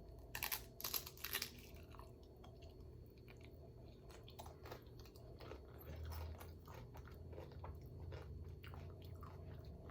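A person chewing food close to the microphone, with a few louder crunchy bites in the first second and a half, then softer chewing with small wet mouth clicks.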